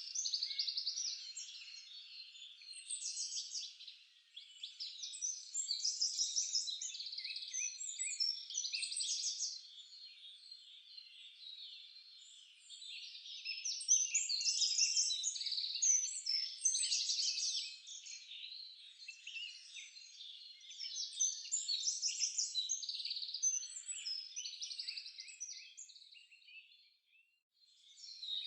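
Several songbirds singing over one another, a steady mix of high chirps and rapid trills that swells and thins, with one brief lull near the end.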